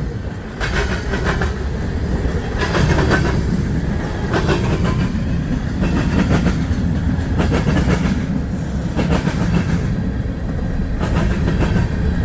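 A CSX mixed freight train's cars rolling past, many of them empty, with a steady low rumble and clusters of wheel clicks over rail joints every second or two, heard from inside a truck.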